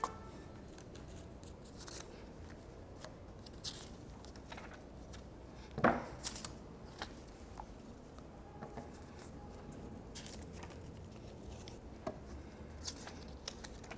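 Paper being handled: faint scattered rustles and small clicks, with a slightly louder crinkle about six seconds in.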